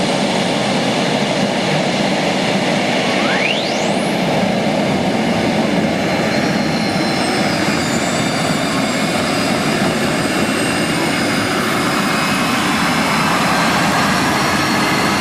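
Twin gas-turbine engines of a modified pulling tractor running loud and steady, a dense roar with high turbine whines over it; one whine sweeps sharply upward about three to four seconds in.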